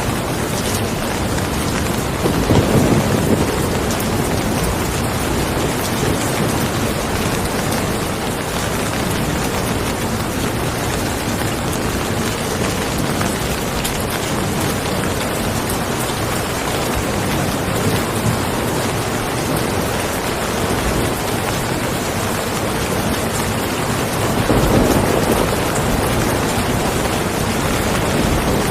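Steady heavy rain falling, an even hiss of many drops, with two brief louder low swells, one a few seconds in and one near the end.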